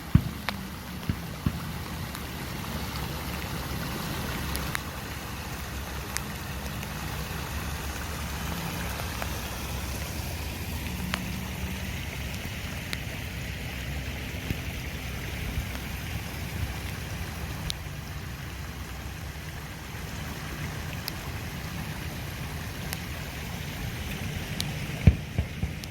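Heavy rain and running water making a steady rush with a low rumble underneath, with scattered sharp ticks of drops and a few louder knocks right at the start and near the end.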